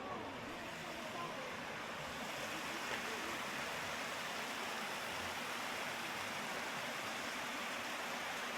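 Steady rush of running water, growing a little louder over the first few seconds and then holding even.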